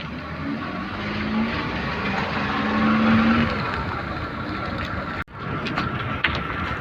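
Maruti 800's small three-cylinder engine running with road noise as the car is driven through a bend, the engine note rising for a couple of seconds. The sound cuts out abruptly about five seconds in, then resumes.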